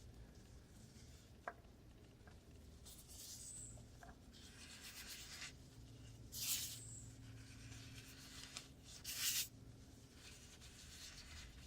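Faint rubbing and scraping of hands working a new spin-on oil filter into place, with a few short hissing rubs a few seconds apart and light ticks.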